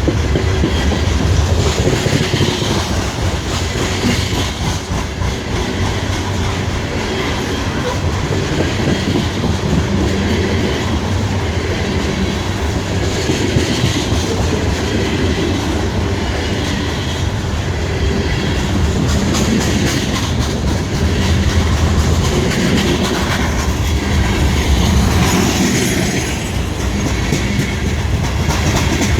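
Freight train of coal cars rolling past, a steady loud rumble of wheels on the rails with rhythmic clickety-clack over the rail joints.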